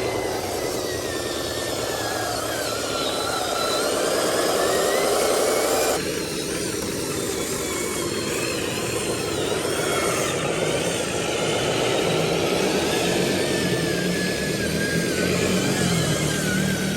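Heavy diesel truck engine running under load, its pitch rising and falling as it revs; the sound changes abruptly about six seconds in.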